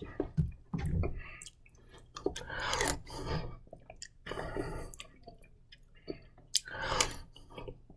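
Wet mouth sounds of a person eating a mouthful of mustard: chewing and lip smacks coming in irregular bursts, with small clicks between.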